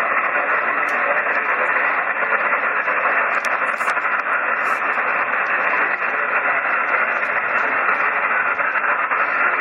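Shortwave single-sideband receiver static: a steady hiss confined to the narrow voice passband, heard while waiting for a weak station's reply.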